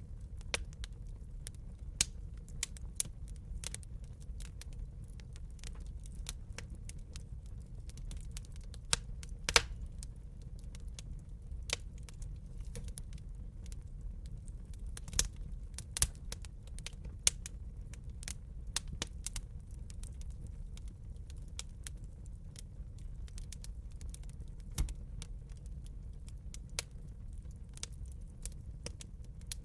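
Wood fire crackling in a fireplace: irregular sharp pops and snaps, a few loud ones, over a steady low rumble of the flames.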